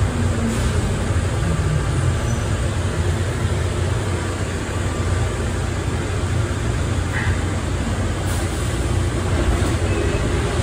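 Automated airport people-mover train running, heard from inside the car: a steady low rumble and rush of running noise.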